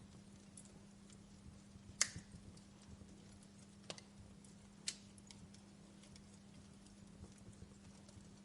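Wood fire crackling in a fireplace: scattered faint pops, with three sharper cracks about two, four and five seconds in, over a faint steady low hum.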